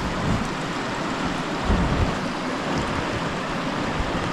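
Steady rushing of a creek, an even hiss of flowing water, with a couple of soft low bumps about two seconds in.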